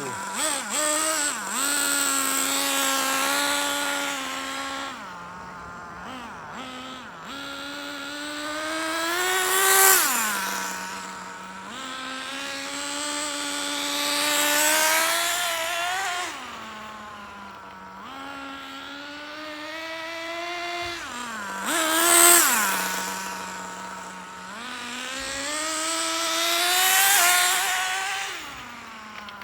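Small two-stroke nitro engine (SH-18) of an RC car running during break-in. It revs up to part throttle and drops back to idle again and again, rising and falling in pitch. It swells louder each time the car passes close, about four times.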